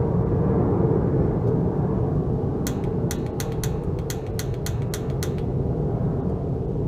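A quick run of sharp clicks, about four or five a second, starting near three seconds in and stopping about two and a half seconds later, over a steady low rumble. The clicks fit the gas water heater's piezo pilot igniter being sparked over and over to relight a pilot that has gone out.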